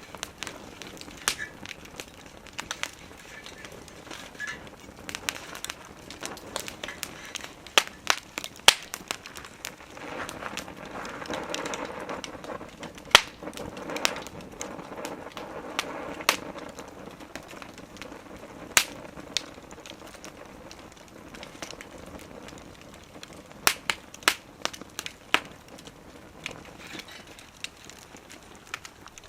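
Wood fire crackling, with sharp irregular pops and snaps from the burning wood. A soft rushing sound of the flames swells for several seconds in the middle.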